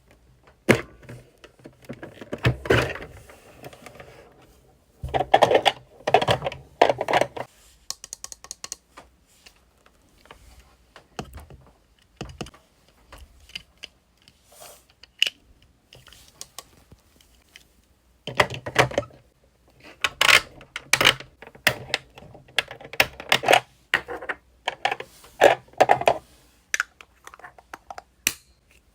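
Irregular clusters of small clicks, taps and rustles, with pauses between them, as small plastic toy pieces and packaging are handled.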